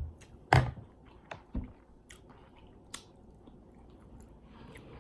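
Close-miked mouth sounds of eating: a loud crisp bite about half a second in, then wet chewing with several smaller crunches.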